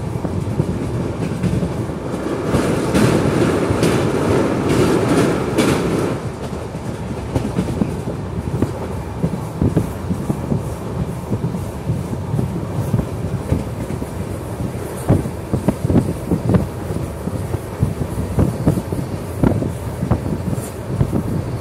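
Passenger train running at speed, heard from inside a coach by an open window: a steady rumble of wheels on rail with irregular clacks over the rail joints. From about two to six seconds in, a louder rushing noise swells and then drops away.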